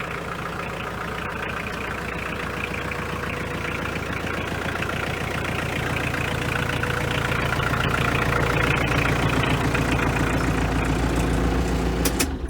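Kioti DK451C compact tractor's 45 hp diesel engine running steadily at idle, growing slightly louder, then stopping near the end.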